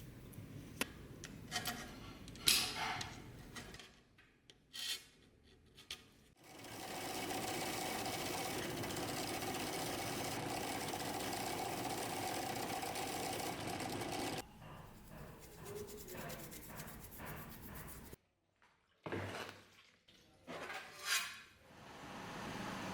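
A small motor-driven tool runs steadily for about eight seconds, starting about six seconds in, with scattered clicks and handling knocks before and after it.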